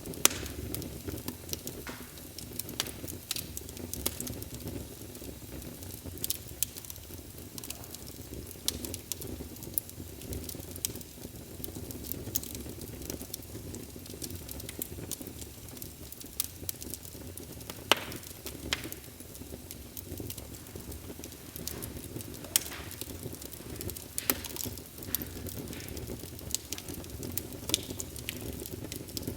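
Wood fire burning in a fireplace: a steady low rumble of flames with frequent irregular pops and crackles, a few sharper snaps standing out.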